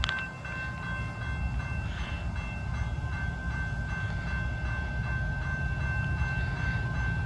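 Train rolling by: a steady low rumble with thin, steady high-pitched tones over it, and a sharp click at the very start.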